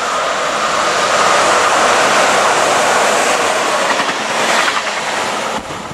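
Train passing close by, its wheels rolling and clattering over the track in a loud, steady rush. The train is a BR 110 electric locomotive hauling an ICE 2 driving trailer. The noise drops away abruptly near the end.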